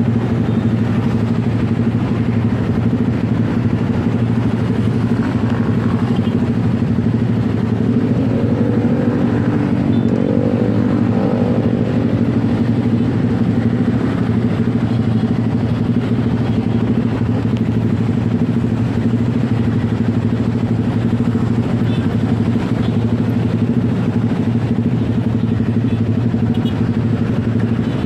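Motorcycle riding in city traffic: its engine runs steadily, with a constant low hum under road and wind noise.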